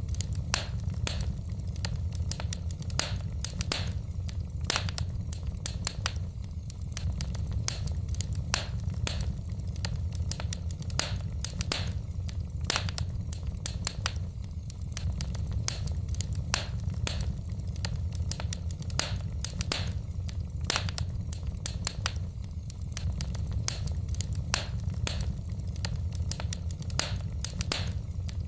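Wood fire crackling in a fireplace: irregular snaps and pops several times a second over a steady low rumble.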